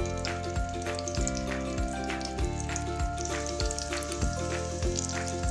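Omelette mixture of egg, tomato and onion sizzling in hot ghee in a frying pan, over background music with a steady beat.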